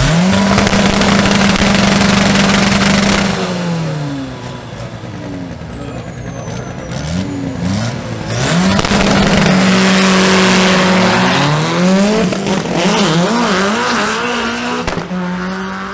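Seat Ibiza drag car's engine revved hard at the start line: held at high revs for about three seconds, dropped back, then held high again about halfway through, revving up and down and fading as the cars pull away down the strip. Another drag car's engine runs alongside.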